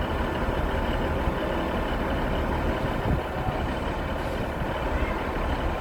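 A diesel train running at the platform, a steady low rumble with a faint hum over it.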